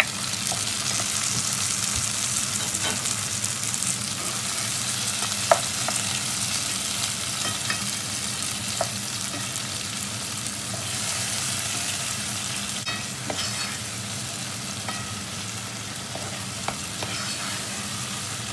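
Chopped tomatoes sizzling as they fry in hot oil with sautéed onion and garlic in a nonstick pot, the hiss strongest in the first few seconds after they go in and swelling again about eleven seconds in. A few sharp clicks of the cooking utensil against the pot, the loudest about five and a half seconds in, and stirring near the end.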